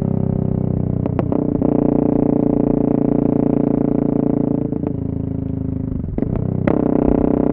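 Yamaha MT-03 660 motorcycle running with its dB-killer removed, holding a steady, loud exhaust note. The pitch shifts briefly about a second in and again twice near the end, as the revs change.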